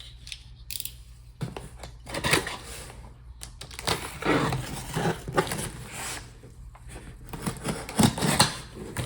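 Cardboard shipping box being opened by hand: packing tape slit and pulled away, and the flaps and packing inside rustling, in irregular bursts of scraping, tearing and clicks.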